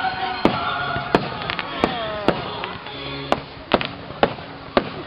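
Fireworks going off: a run of sharp bangs and cracks roughly every half second, with some tones gliding down in pitch in the first half.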